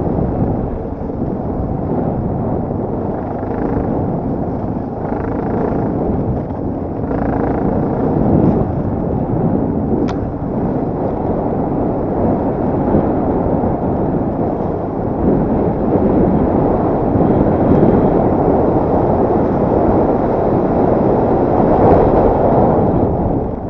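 Enduro motorcycle engine running continuously under riding load, its level rising and falling with the throttle.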